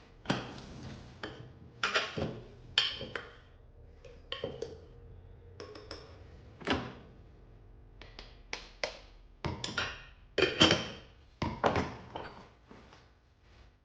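Irregular taps, knocks and clinks of kitchen items being handled and set down on hard surfaces, some ringing briefly, the loudest just after ten seconds in.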